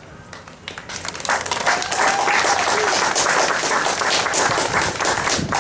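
Crowd applauding, starting faintly and swelling to a steady level about a second in.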